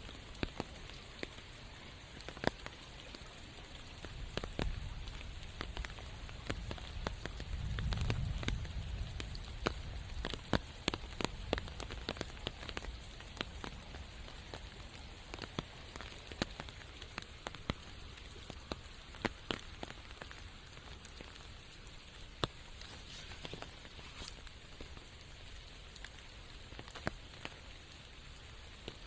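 Steady rain with many sharp drops tapping close by, scattered irregularly. A low rumble swells and fades about eight seconds in.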